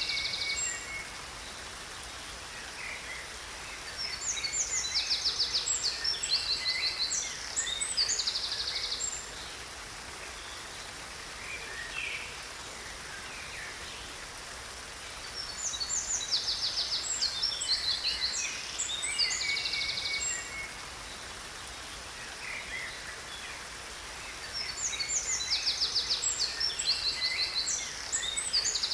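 A songbird singing a long phrase of high chirps and fast trills, three times about ten seconds apart, over a steady rush of falling water.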